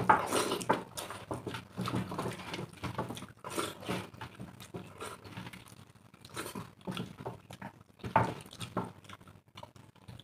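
Two people eating rice and egg curry by hand: irregular wet chewing and mouth smacking, with fingers squishing and scraping rice on steel plates. Louder smacks come at the start and again about eight seconds in.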